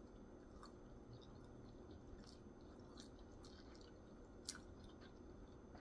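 Faint chewing of food with a few soft, scattered mouth clicks, over a low steady room hum.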